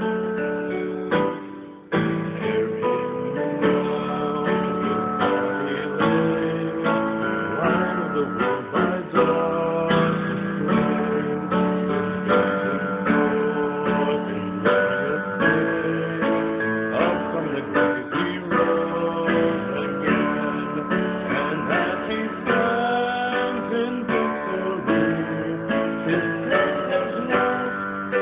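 Music led by acoustic guitar, plucked and strummed, with a brief drop about two seconds in before it picks up again.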